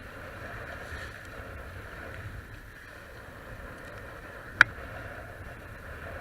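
Steady rush of water and wind as a Hobie Cat catamaran sails under way, with one sharp knock about four and a half seconds in.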